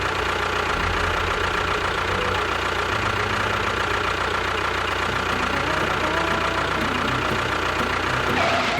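An engine running steadily with a low, even chugging, ending just before the close.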